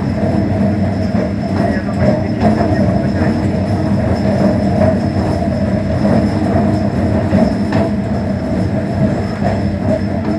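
MEMU electric passenger train running at speed, heard from inside the coach: a loud, steady rumble of wheels on the track with a few clacks over rail joints.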